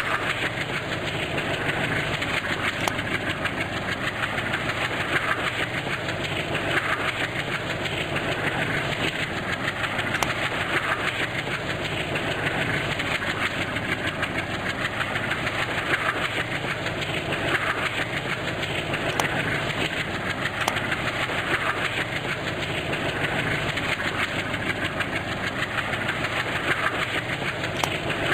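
Train running on the rails: a steady rumble with a soft regular beat every second or two.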